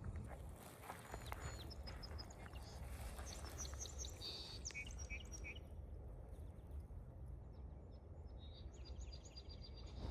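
Several wild birds chirping and calling, with short high notes and brief trills scattered throughout and a quieter stretch about two-thirds of the way in, over a steady low background rumble.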